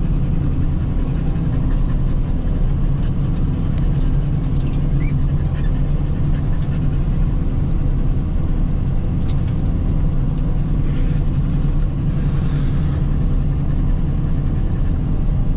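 Self-propelled forage harvester running steadily while chopping corn, a constant low engine hum that holds level throughout.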